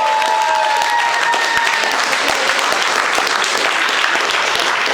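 A small audience applauding, with dense, steady clapping and a few faint tones fading out in the first second or so.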